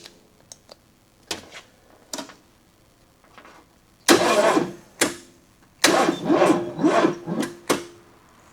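The 1984 Chevrolet S10 Blazer's 2.8 V6 being cranked by its starter without catching. After a few short clicks and brief bumps there is a short crank about four seconds in, then a longer pulsing crank of about two seconds. The starter is not happy, labouring against engine compression.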